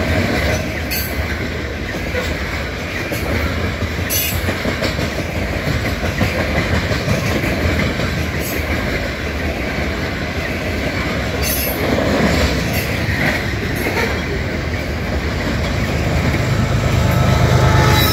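Covered hopper cars of a freight train rolling past: a steady rumble of steel wheels on rail, with sharp clicks every few seconds. Near the end, the engine of a GE ES44AC locomotive working as a mid-train distributed power unit grows louder as it draws level.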